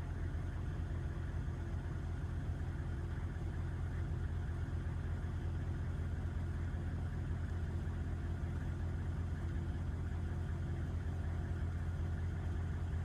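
Humvee's V8 diesel engine running steadily, a low, even drone with no change in speed.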